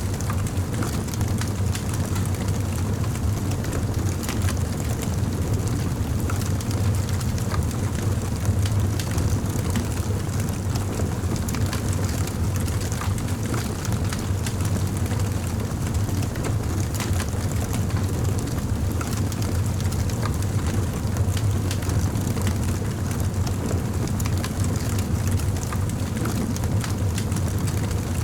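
Campfire burning, with scattered crackles and pops over a steady low rumble.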